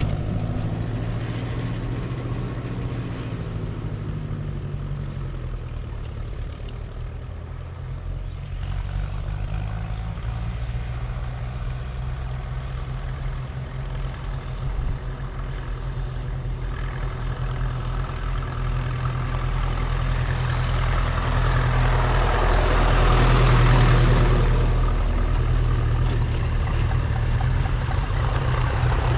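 Vintage tractor engines running steadily. The sound dips a little early on, then builds over the second half and is loudest about 23 seconds in, as a tractor comes close.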